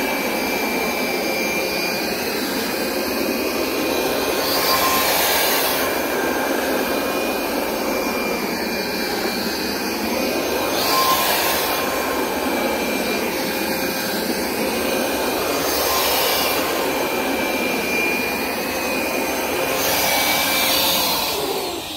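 Hoover SmartWash Pet Complete carpet cleaner running in dry-only mode, its suction motor pulling water from the rug in a steady whine. The sound swells briefly about every five or six seconds as the machine is pushed and pulled. Near the end the motor winds down in pitch.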